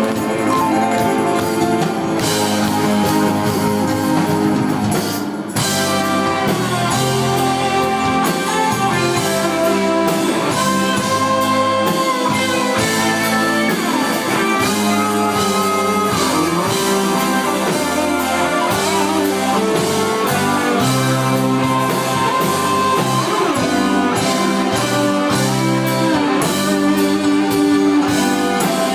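Rock band playing live: an electric guitar lead with bending notes over drums and bass, with a brief break in the sound about five seconds in.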